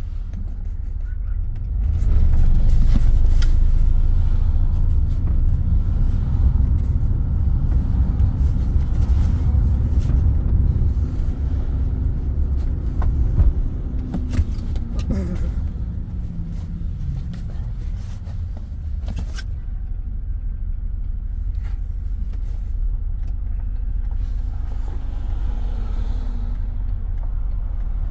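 Car on the move heard from inside the cabin: low road and wind rumble coming in through an open side window. It swells about two seconds in, eases off after about eleven seconds, and has a couple of sharp knocks near the middle.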